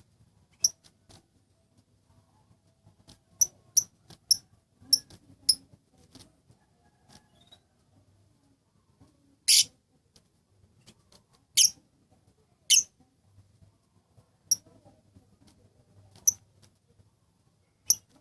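Lovebird giving short, sharp, high chirps at irregular intervals, with three longer, harsher calls in the middle.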